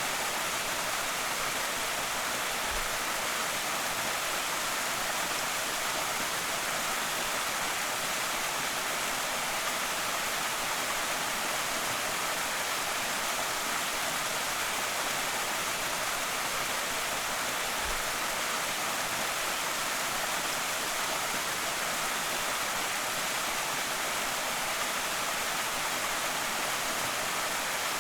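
Creek waterfall pouring steadily: a continuous, even rush of falling water, hissier than it is deep.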